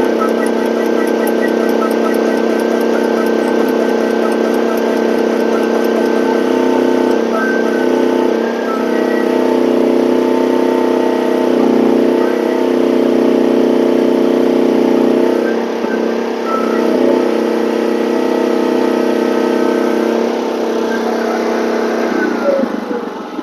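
Gasoline engine of a one-ton mini excavator running at high revs under hydraulic load while the hydraulic auger bores into compacted ground, its pitch dipping briefly a few times as the load changes. Near the end the engine drops back toward idle.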